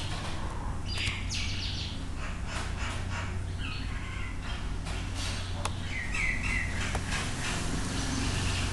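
Small birds chirping in short calls over a steady low hum, with a few sharp clicks.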